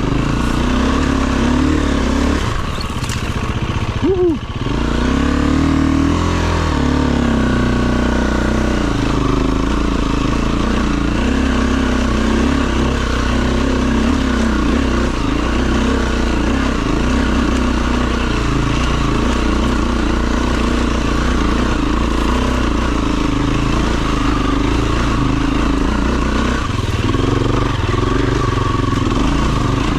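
Off-road dirt bike engine running under load, its pitch stepping up and down with the throttle and gear changes. The engine eases off briefly about four seconds in.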